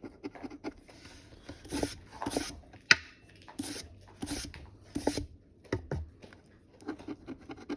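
Scratch-off lottery ticket being scratched: rapid, light scraping strokes, with several louder rubbing strokes in the middle and one sharp click about three seconds in.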